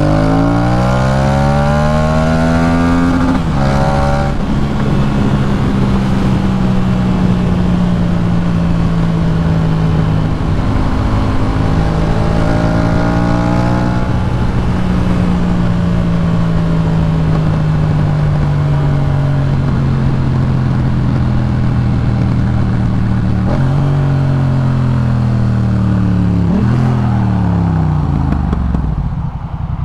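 Yamaha MT-07's parallel-twin engine through a Jeskap K4 full aftermarket exhaust, heard from the rider's seat. It revs up through the gears with a shift a few seconds in, holds a steady cruise with slowly changing revs, then pulls hard again through another gear change before the throttle closes near the end.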